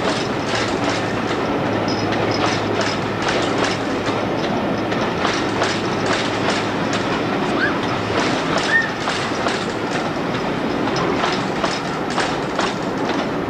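Passenger coaches of a passing train clattering over rail joints and pointwork: quick, uneven runs of wheel clicks over a steady rumble. A low diesel engine hum from the departing locomotive fades out about halfway through.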